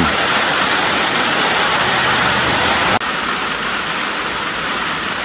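Steady rain falling, an even hiss of drops. It cuts out for an instant about three seconds in and then goes on a little quieter.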